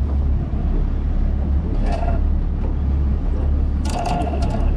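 Fishing boat's engine running with a steady low drone. A short higher tone sounds about two seconds in and again near the end.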